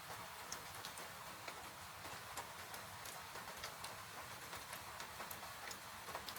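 Wood fire crackling in a fireplace, with irregular sharp pops several times a second, over a steady hiss of falling rain.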